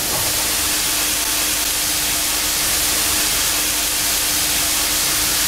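Sliced mushrooms sizzling in hot oil with sautéed onions in a stainless steel pan as they are tipped in and stirred with a wooden spoon: a steady, even hiss. A faint steady hum runs underneath until near the end.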